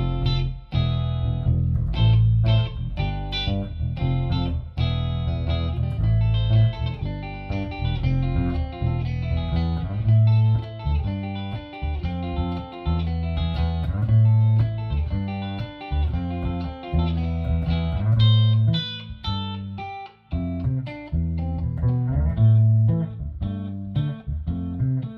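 Electric guitar playing a shuffle, picked notes over a low bass pattern that repeats about every four seconds.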